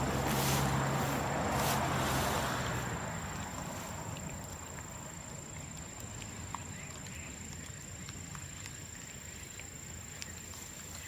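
Bamboo bonfire burning with a low hiss and a few sparse sharp crackles. In the first three seconds a louder rushing noise with a low hum swells and fades away.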